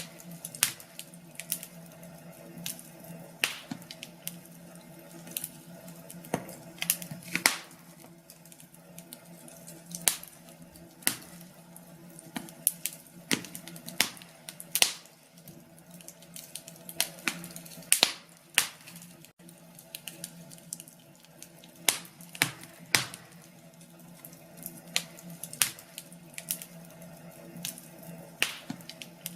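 Fireplace fire crackling: irregular sharp pops and snaps, a few a second, over a faint steady background.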